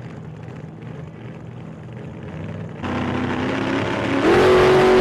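2016 Mustang GT's 5.0 V8 exhaust through Kooks catless longtube headers and an MBRP Race catback, running steadily at low revs. It turns louder about three seconds in, then revs up near the end and holds the higher revs.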